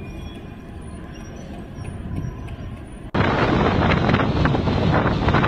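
Low, steady street traffic noise, then an abrupt cut about three seconds in to loud, gusting wind buffeting the microphone in a snowstorm.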